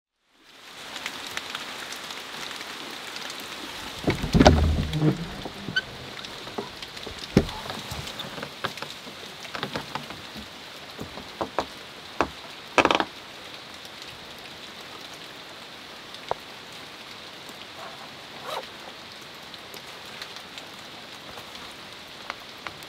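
Steady rain falling, with scattered drips and a few sharp knocks; the loudest, a short cluster of low thuds, comes about four seconds in.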